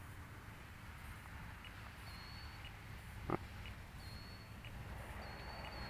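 Quiet outdoor evening ambience: a low steady rumble with faint high chirps repeating every second or so, and one sharp click about three seconds in.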